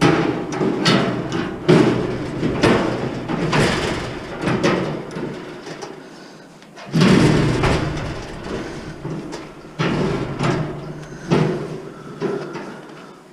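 Metal parts of a scrap appliance being wrenched and knocked apart by hand: irregular clanks and bangs, several a second at first, then sparser, with a loud bang about seven seconds in.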